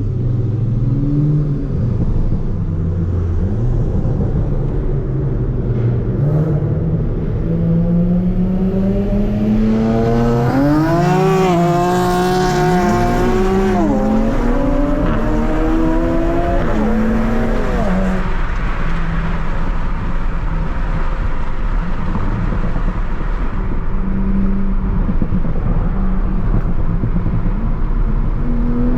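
Tuned Toyota Supra MK5's turbocharged B58 straight-six under hard acceleration: the revs climb through a pull, break with quick upshifts, then drop back about two-thirds of the way in. Before and after the pull it cruises with a steady engine drone and road noise.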